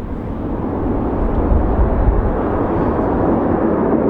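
Avro Vulcan's four Rolls-Royce Olympus turbojets heard as a deep, steady jet roar during a display pass, growing steadily louder as the bomber approaches.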